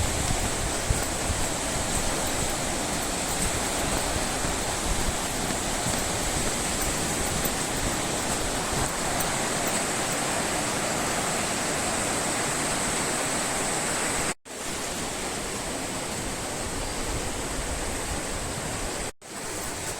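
Mountain river rushing through a rocky gorge below a footbridge: a steady, even rush of water, briefly cut off twice near the end.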